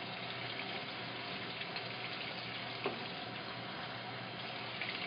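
Washing machine filling with water: a steady rush of water through the inlet into the drum, with one brief click near the middle.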